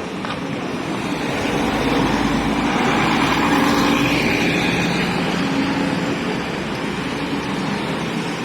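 A motor vehicle driving past close by, its engine and road noise growing louder to a peak about three and a half seconds in, then fading away.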